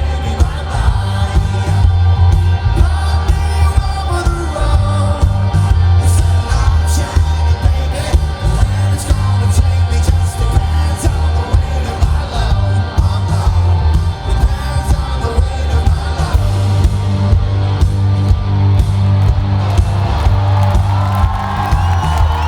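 Live rock band playing loud, with heavy bass, drums and singing, and the crowd shouting along. Near the end, sliding guitar notes come through.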